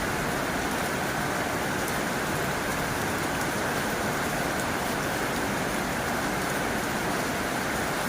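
Heavy rain falling steadily on a tin roof: a dense, even hiss with faint scattered drop ticks.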